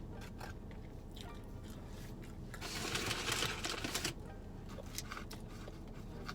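Close-miked eating: scattered small mouth clicks and crunches of chewing, with a louder noisy rustle lasting about a second and a half near the middle.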